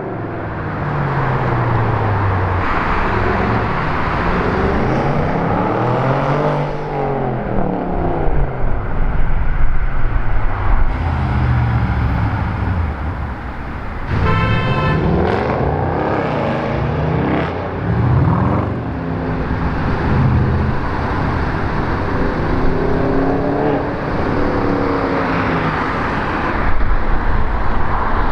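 Cars driving past one after another, their engines revving up and easing off. A car horn sounds briefly about 14 seconds in.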